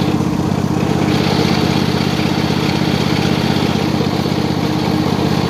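Riding lawn mower engine running steadily with an even firing beat.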